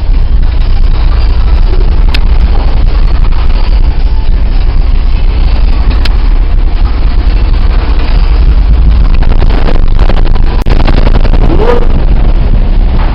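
Loud, steady low rumble aboard a cargo ship in rough seas: wind and sea noise on the microphone mixed with the ship's own noise. A short wavering tone sounds near the end.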